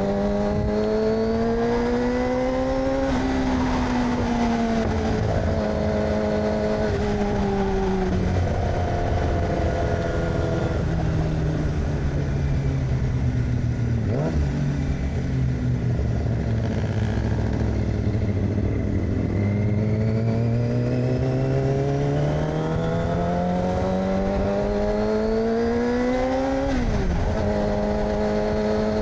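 2006 Yamaha R6 inline-four with an aftermarket AR exhaust, under way. The revs climb and then drop sharply with an upshift about three seconds in. Engine speed falls slowly through the middle as the bike slows, then builds again to another upshift near the end.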